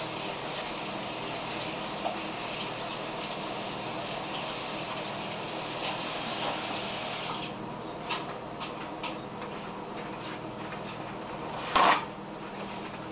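Aerosol can of non-stick cooking spray hissing in one long, steady spray for about seven seconds as the chicken is coated. This is followed by light clicks of handling and one loud knock near the end.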